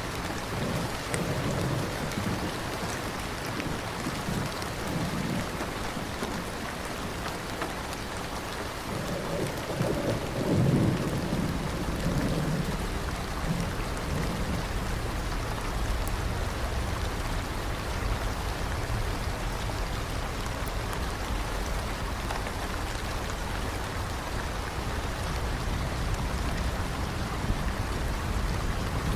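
Steady rain falling, with distant rolls of thunder: a faint rumble near the start and a stronger, longer one about ten seconds in.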